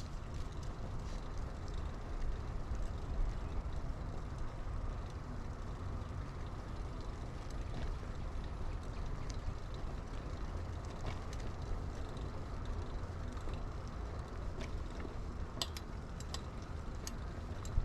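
Mountain bike being ridden, heard from a chest-mounted camera: a steady low wind rumble and tyre noise, with scattered light clicks and rattles from the bike, which bunch into a run of sharper clicks near the end.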